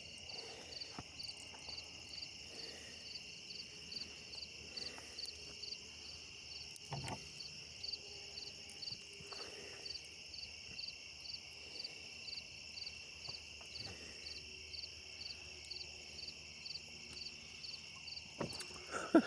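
Night crickets chirping: a steady high trill with an even, pulsed chirp about twice a second over it, and a few faint clicks.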